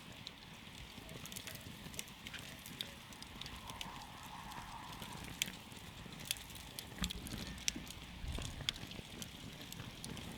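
Wood campfire crackling: scattered sharp pops and snaps at irregular intervals over a low, steady rumble.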